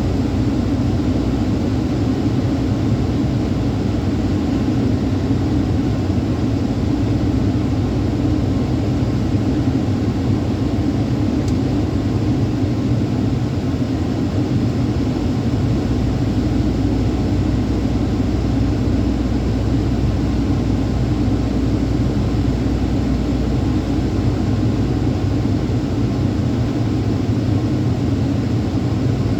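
Truck engine and road noise while driving, a steady low drone that holds even throughout.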